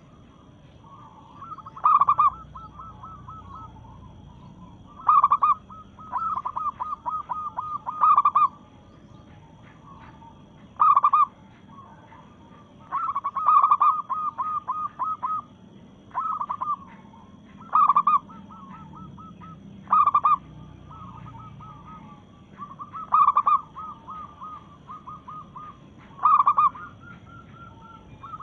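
Zebra dove (perkutut) cooing: a loud short coo about every three seconds, with runs of quicker, quieter trilled notes in between. The uploader labels the bird a female calling to males.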